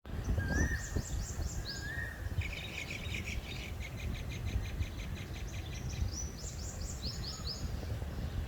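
Several birds singing and calling: bursts of quick high chirps, a fast trill of repeated notes from about two and a half to six seconds in, and a few short rising whistles. A steady low rumble runs underneath.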